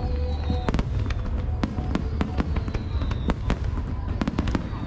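Fireworks display: a rapid, irregular series of sharp bangs and crackles from bursting shells over a continuous low rumble.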